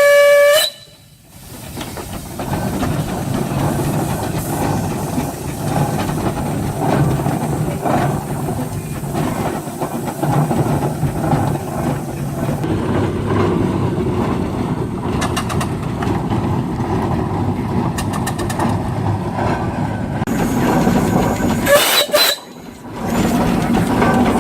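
Steam train whistle sounding at the very start and cutting off, then the train running by with a steady rumble and clatter of wheels on track. A second short whistle blast sounds near the end.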